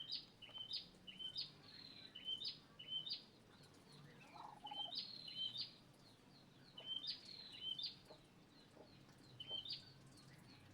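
Muscovy duckling peeping: short, high peeps that drop in pitch, coming in quick bursts of three or four every second or two.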